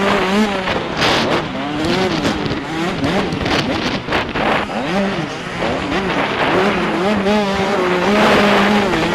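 85 cc two-stroke motocross bike engine revving hard, its pitch climbing and dropping over and over as the rider throttles through the gears.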